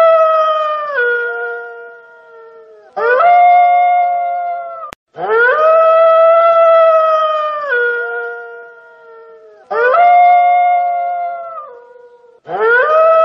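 A wolf howling again and again: about five long, clear howls with short pauses between them, each holding a steady pitch and then dropping lower near its end. One howl cuts off abruptly with a click about five seconds in.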